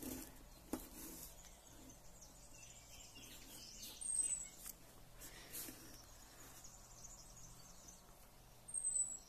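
Faint outdoor background with two short, high, falling bird chirps, one about four seconds in and one near the end, plus a sharp click under a second in and a few soft rustles.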